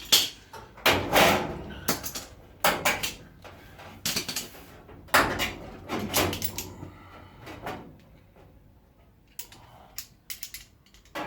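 Irregular metallic knocks and clanks with a short ring after each, roughly one a second, as a steel body panel and its clamps are shifted into position; after about eight seconds only a few fainter clicks remain.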